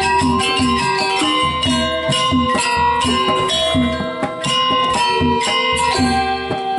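Balinese gamelan music: bright, ringing struck metal tones in a fast, even pulse over regular low drum strokes.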